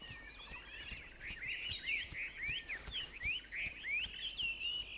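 A group of small birds chirping, with many quick, overlapping chirps that grow busier after about a second.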